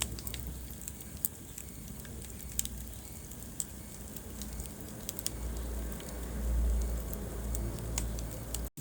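Wood fire crackling in a fireplace: scattered sharp pops and snaps over a low rumble of burning flames. The sound cuts out for an instant near the end.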